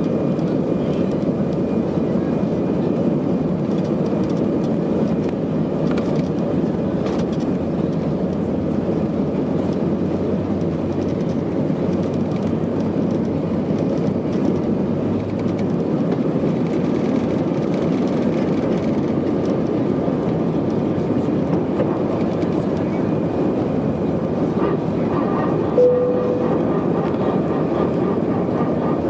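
Steady rumble of an Airbus A319-111 jetliner with its CFM56 turbofans running. Near the end a faint higher whine joins in, and a short single tone sounds once.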